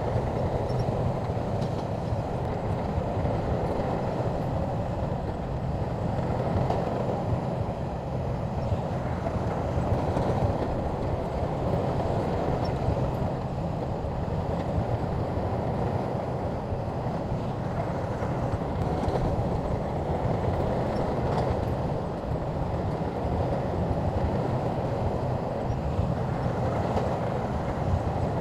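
SHANTUI crawler bulldozer's diesel engine running steadily, with faint clanking from its steel tracks.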